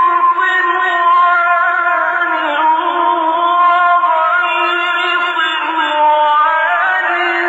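A male Quran reciter chanting in the melodic mujawwad style, drawing out long, ornamented notes that bend and glide in a high voice. The old recording sounds narrow and dull, with no top end.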